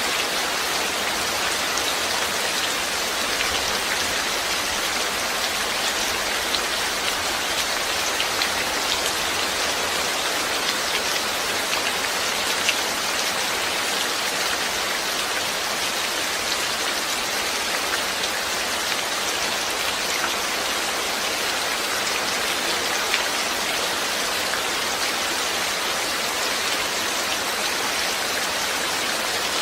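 Steady rain falling, a dense even hiss with countless small drop taps and no let-up.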